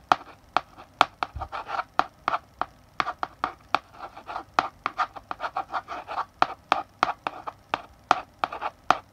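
Chalk writing on a blackboard: sharp taps as the chalk strikes the board, with short scratchy strokes between them, several a second.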